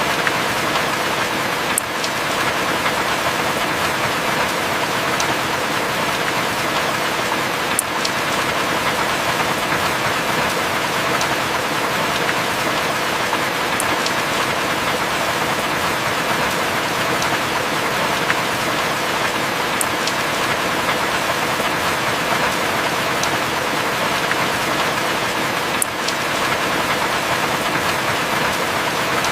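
Heavy rain falling steadily, an even hiss with no thunder, marked by a faint tick about every six seconds.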